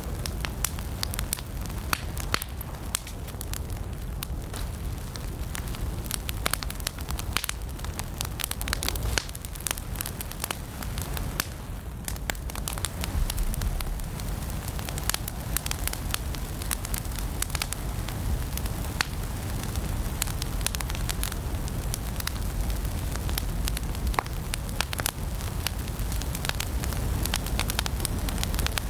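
Wood logs burning in a fireplace: a steady low rumble of flames with many sharp crackles and pops scattered throughout.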